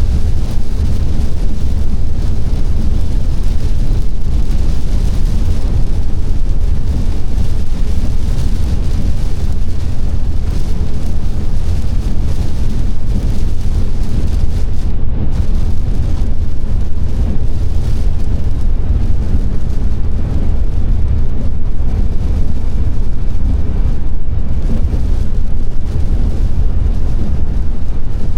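Car driving on a wet road: a steady low rumble of road and engine noise with a light hiss from the tyres.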